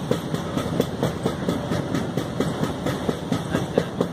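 A moving train running along the track: its wheels clatter over the rails in a quick, uneven run of clicks over a steady low rumble.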